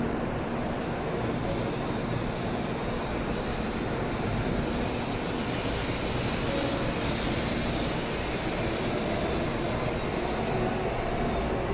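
Shinkansen train pulling away from the station, its running noise growing slowly louder.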